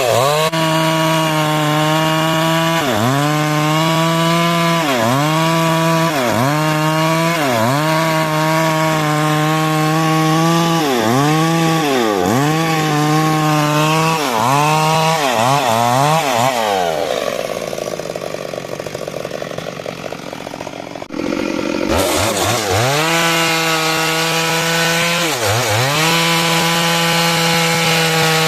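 Stihl MS 382 two-stroke chainsaw running at high revs while cutting through a large trembesi log, its note dipping and recovering over and over as the chain bites into the wood. About two-thirds of the way through, the engine drops off to a lower, quieter note for a few seconds, then revs straight back up and keeps cutting.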